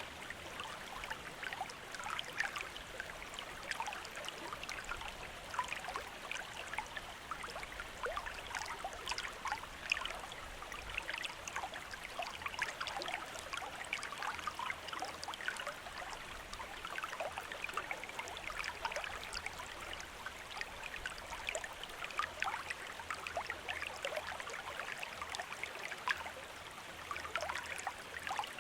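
Shallow river or stream running steadily, with a dense patter of small trickles and splashes over the flow.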